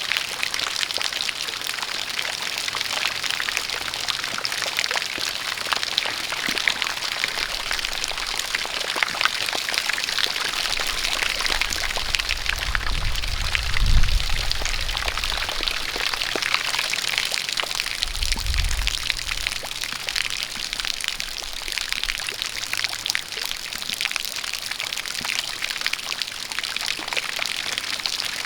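Steady rain falling, with a stream of water pouring and splashing and many fine drop ticks. A low rumble swells briefly about halfway through and again a few seconds later.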